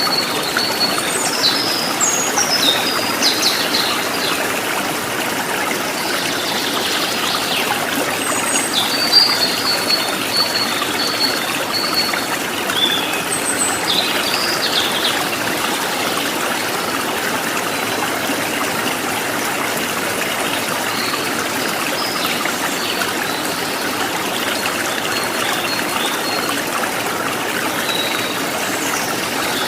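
Running water of a stream flowing steadily, with birds chirping and calling over it in short high notes, most of them in the first half and a few near the end.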